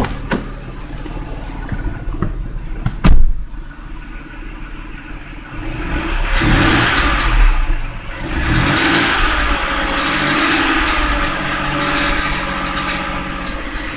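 Ford 3.0 V6 engine swapped into a Mazda6, idling and then revved and held at raised revs, heard from inside the cabin; a car door shuts with a loud thump about three seconds in. Under the running engine there is a noise the owner takes for a pulley going out.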